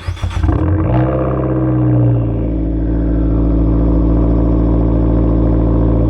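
2014 Fiat 500 Abarth's 1.4-litre turbo four-cylinder starting up through a custom 2.5-inch exhaust with 4-inch tips: it fires with a brief flare of revs, then settles into a steady idle.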